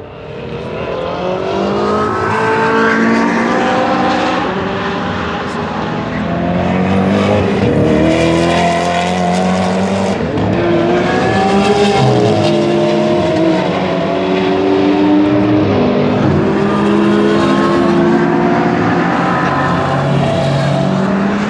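Several supercar engines revving hard as the cars accelerate past one after another, the pitch climbing through each gear and dropping back at the shifts.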